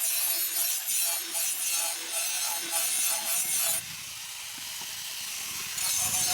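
Abrasive scraping on a steel blade in repeated back-and-forth strokes, about two a second. It eases to a steadier, quieter hiss for a couple of seconds before the strokes resume near the end.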